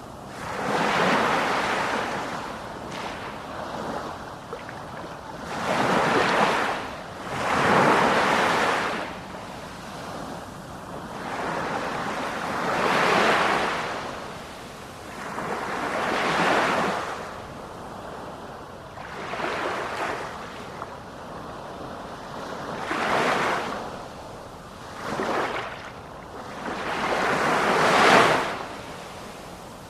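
Sea waves breaking and washing ashore, a rush of surf that swells and falls back about every two to four seconds, the loudest surge near the end.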